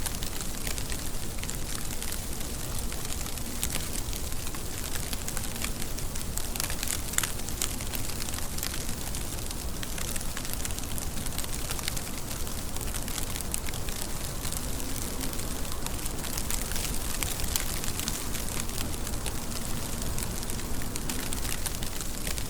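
Steady rainfall: a dense, even hiss of rain with many small drop taps and patters throughout.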